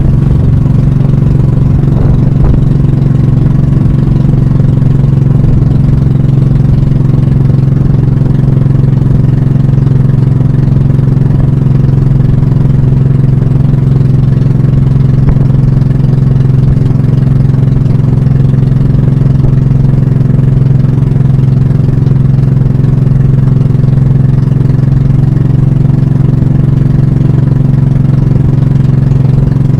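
Pump boat (banka) engine running loud and steady at a constant speed, with no revving.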